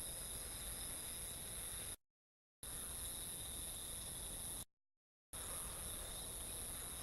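Night chorus of crickets and other insects, sped up to four times normal speed: a steady, high-pitched trilling hiss. It drops out to dead silence twice for about half a second, about two seconds in and again near the middle.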